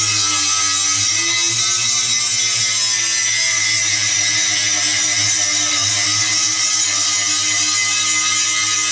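Angle grinder grinding steel: a steady, loud motor whine over a harsh hiss from the disc on the metal. The pitch sags slightly and recovers in the first couple of seconds as the disc bites.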